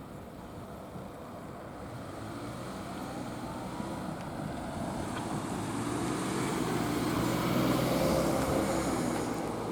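Kōnan Line electric train drawing near the level crossing, growing steadily louder to a peak about eight seconds in, with a motor whine rising in pitch about three to four seconds in as it picks up speed.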